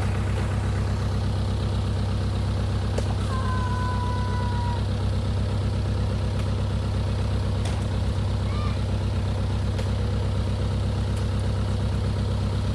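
A truck engine idling steadily with an even low throb, with a few sharp knocks over it.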